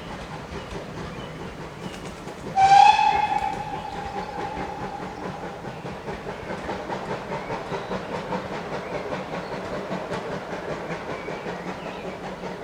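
Steam locomotive whistle sounding one short blast about two and a half seconds in, its tone dying away over the next second or two. Under it a train runs steadily, with a regular clatter of wheels over the rail joints.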